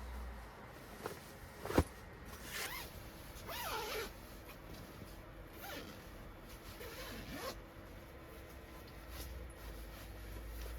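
A zipper pulled in about four short strokes, after a sharp click about two seconds in.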